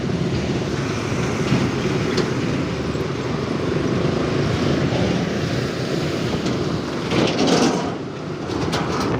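Motorcycle engine running while riding, a steady rough drone, with a louder stretch of passing noise about seven seconds in.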